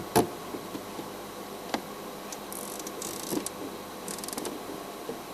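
Insects chirping in short, high buzzy bursts over quiet bush ambience, with a couple of sharp clicks near the start.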